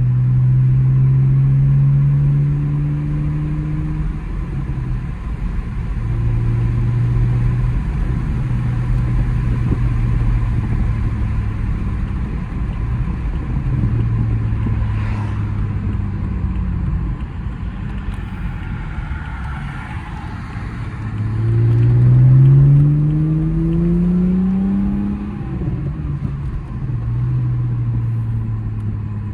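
BMW E82's N52 straight-six engine through a muffler-delete exhaust, droning at a steady cruise. About two-thirds of the way through it accelerates, rising in pitch and getting louder, then eases back to a steady cruise.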